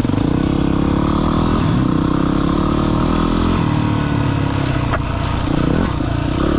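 Single-cylinder dirt bike engine running under load on a trail, its note rising and falling with the throttle and easing off briefly a few times.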